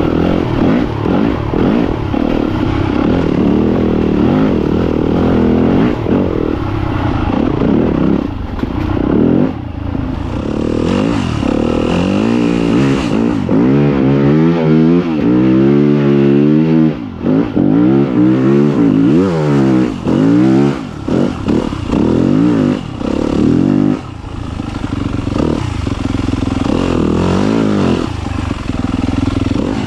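Yamaha YZ250FX dirt bike's single-cylinder four-stroke engine being ridden along a trail, its revs rising and falling over and over as the throttle is worked, with a few brief drops where the throttle is shut off.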